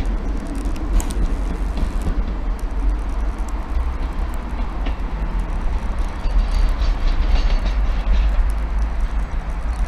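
Class 90 electric locomotive 90014 moving off light engine, with no train behind it: a steady low rumble. A faint steady hum comes in about halfway.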